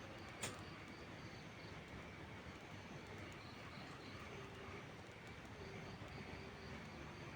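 Steady rain falling, with a single sharp crackle from a wood fire about half a second in. Faint, evenly repeated chirps sound over the rain.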